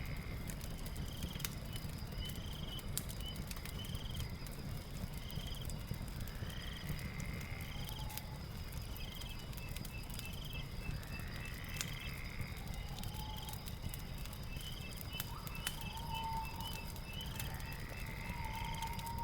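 Night ambience with a crackling fire: scattered sharp pops and crackles over a low steady rumble. Insects chirp in an even pulse about once a second, and a rising call repeats every few seconds.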